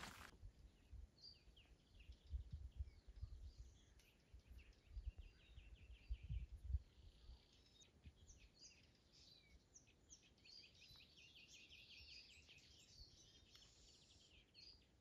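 Faint songbirds chirping and trilling, with a few dull low thumps in the first half.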